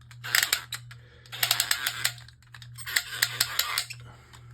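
Beyblade Burst Precision Strike launcher being wound up for left spin: three bursts of rapid ratcheting plastic clicks as the winder is turned.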